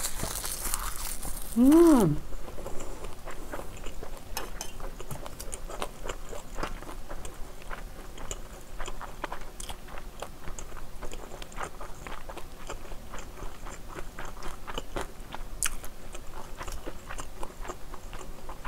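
Close-miked chewing and crunching of kimchi fried rice wrapped in dried seaweed, with many small sharp clicks of a metal spoon against a steel pan between bites. About two seconds in there is a short hummed "mm" that rises and falls.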